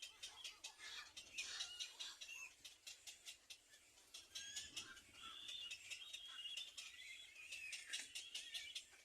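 Faint, high-pitched chirping from small birds at a nest, many quick cheeps a second with short warbling notes in between.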